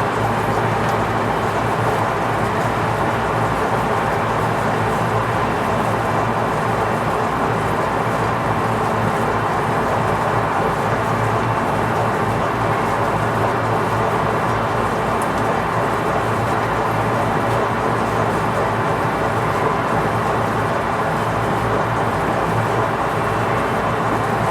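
Lathe running steadily while turning a large pot-bearing part, giving a constant machining noise with a faint steady hum.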